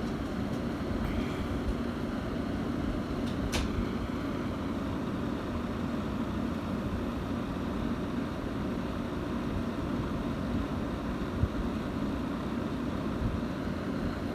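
Frigidaire 15,100 BTU window air conditioner running steadily in cool mode, its fan and compressor both on, with one short click about three and a half seconds in. The compressor is running continuously and, as the owner puts it, won't turn off.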